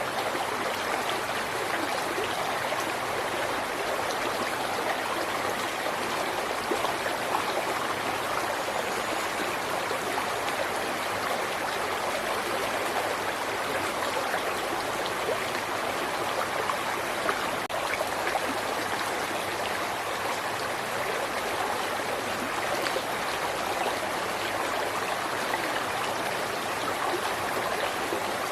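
River water flowing steadily over rocks: a continuous rushing with small splashes and gurgles.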